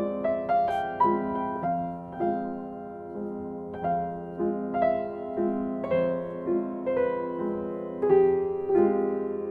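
Background piano music: a slow melody of single notes, each struck and left to ring.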